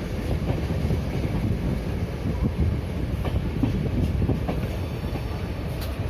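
Moving passenger train heard from on board: a steady low rumble of the coach running along the track, with irregular clacking of the wheels over the rails.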